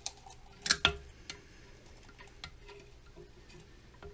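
Scattered plastic clicks and knocks in an emptied toilet tank as the old flapper is worked loose by hand, with the loudest pair of knocks just under a second in.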